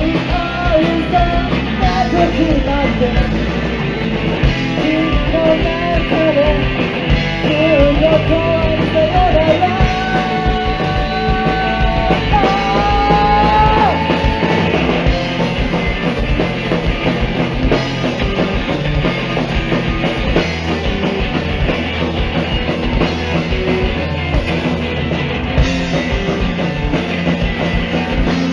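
Live rock band playing loudly: a full drum kit and guitars throughout, with a wavering lead melody over the first half that climbs, is held, and drops out about halfway through.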